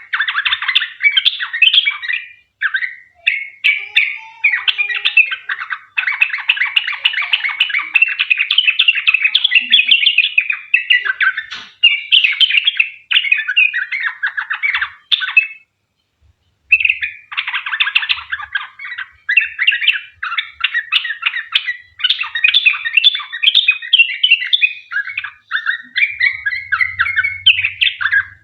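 Yellow-vented bulbul (trucukan) singing a long, rapid run of quick bubbly, chattering phrases with hardly a break. The song stops briefly about halfway through, then goes on.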